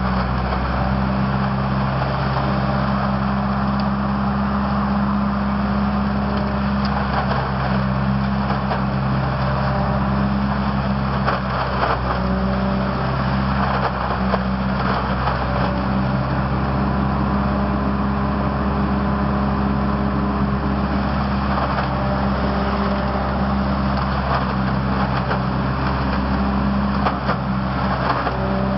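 Truck-mounted leaf collector running at a steady speed: a constant engine hum with a steady rushing noise over it.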